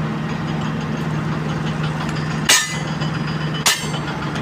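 Heavy diesel engine idling steadily, with two sharp metal hammer strikes about a second apart.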